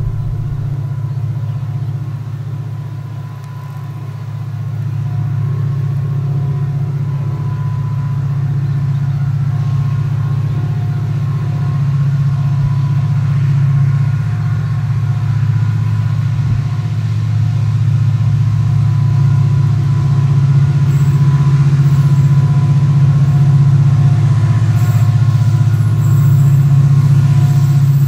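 Diesel engines of two CC 205 diesel-electric locomotives hauling a long loaded coal train, a steady low drone that grows gradually louder as the train approaches.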